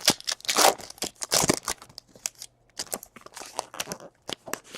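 Trading card packs and cards being handled, with pack wrappers crinkling and tearing in a quick run of irregular crackles and rustles. It is loudest in the first second and a half.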